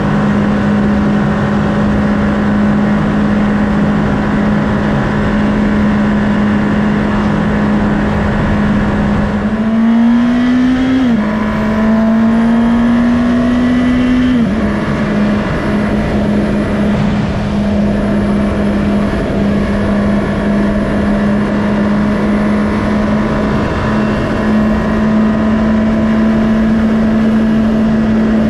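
2019 Honda CB650R inline-four engine running at steady cruising revs with wind noise, then revving up through two gears. Each rise is cut by a sharp drop at an upshift, about 11 and 14.5 seconds in, before it settles back to a steady drone.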